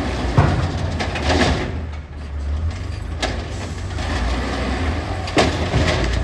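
Recycling garbage truck's diesel engine running with a low rumble, with a few sharp knocks and clanks from the truck.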